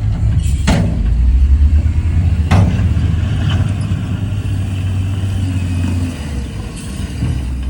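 Heavy earthmoving machinery's diesel engine running with a steady low rumble, with two sharp knocks about a second and a half apart near the start.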